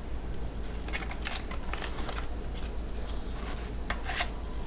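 Coffee grounds being scooped with a spoon into a reusable K-cup filter: a string of short, soft scrapes and rustles, with a steady low hum underneath.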